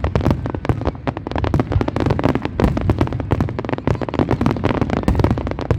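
Fireworks going off in a rapid, continuous barrage, many bangs and crackles a second with no pause.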